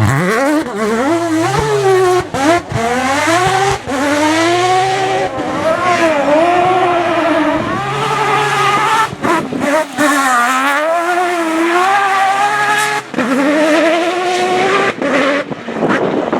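Mazda rotary engine of a Proto 205 rally car revving hard under load. Its pitch climbs and falls again and again, broken by several brief drops in loudness, with some tyre squeal.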